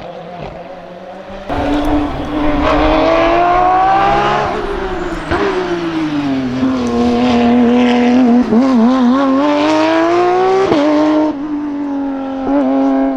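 Hill-climb race car engine at full throttle: its pitch climbs steadily, drops away, then runs with a few quick wavering revs about eight to nine seconds in and a short rise before settling.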